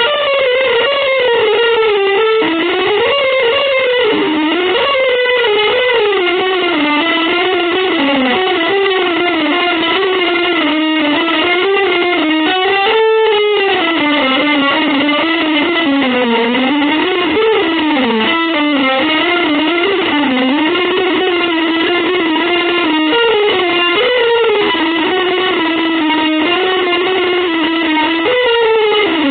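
Music: an electric guitar playing a continuous single-note melodic line that wanders up and down in pitch.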